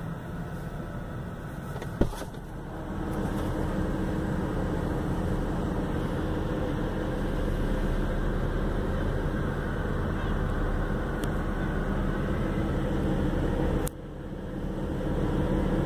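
BMW M4's twin-turbo straight-six running at steady revs, with one sharp click about two seconds in and a sudden drop in level near the end.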